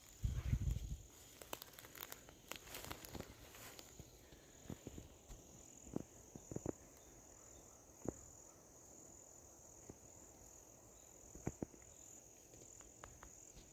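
Scattered crackles and snaps of dry leaves and twigs underfoot on a swampy forest floor, under a steady high insect drone. A low rumbling bump comes just after the start.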